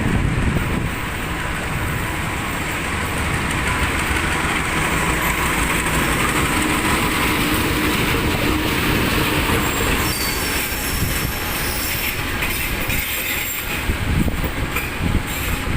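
Train rolling along the rails: a steady, continuous noise of wheels on track.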